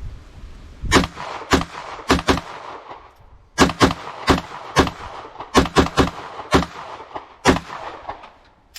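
SIG Sauer MPX 9mm carbine fired semi-automatically: about a dozen single shots, a quick string of four, a short pause, then about nine more at a steady pace of roughly two a second.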